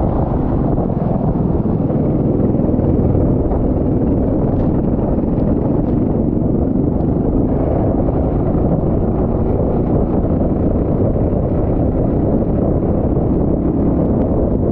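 Loud, steady wind rumble on the microphone, with the running noise of a go-kart on a wet track underneath it.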